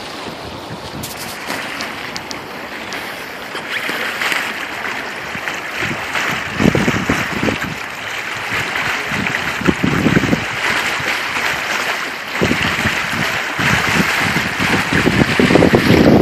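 Wind rushing past a sailboat under sail, with a steady hiss of wind and water and low gusts buffeting the microphone, the strongest near the end.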